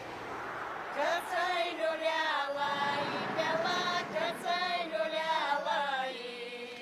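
Background music: a high wordless voice singing long, wavering notes in a chant-like line, coming in about a second in after a brief stretch of soft hiss.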